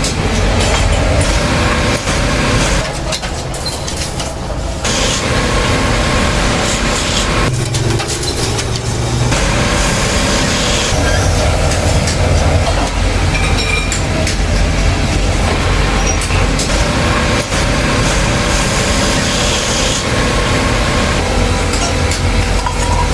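Loud, continuous workshop machinery noise with rapid metallic clatter and knocks, from small-scale metal kettle manufacturing.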